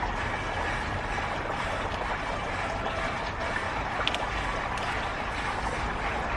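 Steady rushing background noise, with a couple of faint clicks about four and five seconds in.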